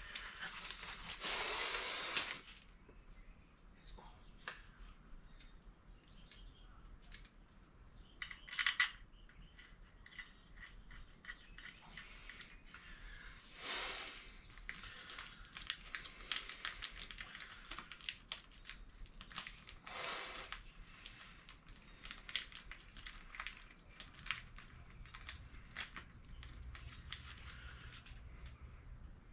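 Small metal clicks and clinks of hand tools, screws and engine parts being handled on an engine block, with a few brief louder scraping noises, one about a second in and others near 9, 14 and 20 seconds.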